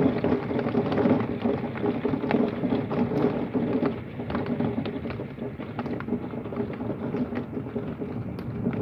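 Heavy thunderstorm rain falling hard outside a window, with many sharp ticks of drops striking. It eases slightly about four seconds in.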